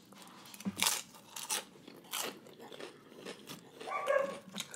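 Crisp fried wonton-chip nachos bitten and chewed close to the microphone: a run of sharp, irregular crunches. A brief vocal sound comes about four seconds in.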